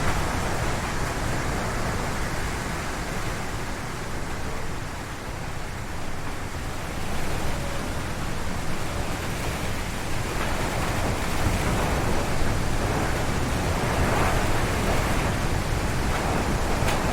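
Strong wind gusting through a forest, a continuous rush with heavy low rumble on the microphone, easing slightly a few seconds in and then surging again in gusts.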